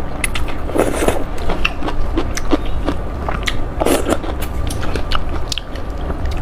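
A person eating noodles close to the microphone: chewing and biting, with many irregular wet clicks and two louder noisy moments about a second and four seconds in. A steady low hum runs underneath.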